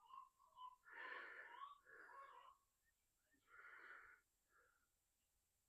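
A man breathing heavily close to the microphone: soft, slightly wheezy in-and-out breaths about a second apart, which stop a little after halfway.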